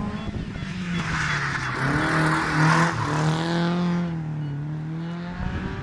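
A historic rally car's engine running hard past the spectators. Its pitch falls, drops sharply about two seconds in, then climbs again before easing off. A hiss of tyre noise peaks about one to three seconds in.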